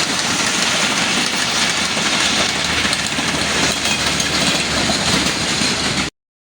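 Train running on the rails: a steady, loud noise that cuts off abruptly near the end.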